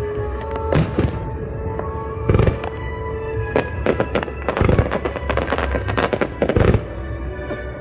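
Aerial fireworks shells bursting in quick succession, several deep booms among many sharp cracks and crackles, over music played with the display.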